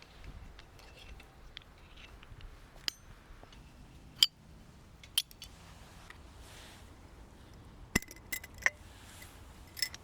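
A few light clinks and taps of small hard objects being handled, some with a short ring. The loudest comes about four seconds in, with a quick cluster near the end.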